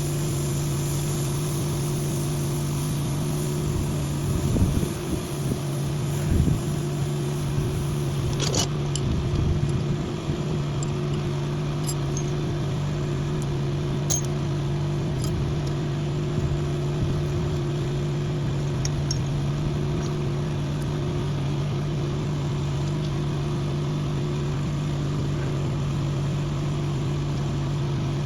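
An engine idling steadily, with a few knocks and metallic clatter between about four and ten seconds in and a couple of sharp clicks after that.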